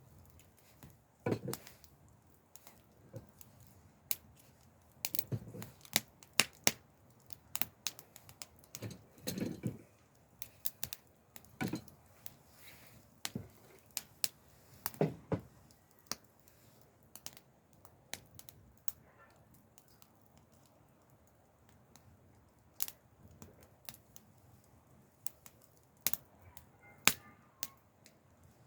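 Wood fire crackling, with irregular sharp pops and snaps, and a few duller knocks now and then.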